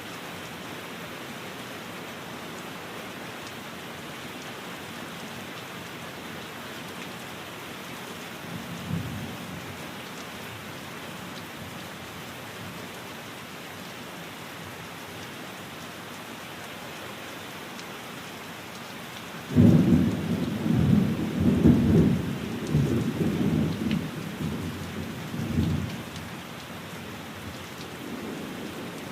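Steady rain falling, with a short low rumble of thunder about a third of the way in. About two-thirds through, a loud clap of thunder breaks in suddenly and rolls on for about six seconds before fading back into the rain.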